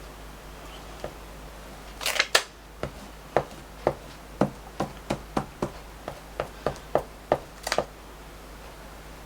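A brief rustle of paper, then a run of light, sharp clicks or taps, about three a second for some five seconds, as paper pieces are handled and glued down at a craft desk.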